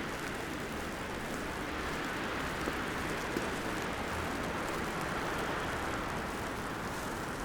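Steady wet city-street ambience in falling snow: an even hiss with a few faint ticks.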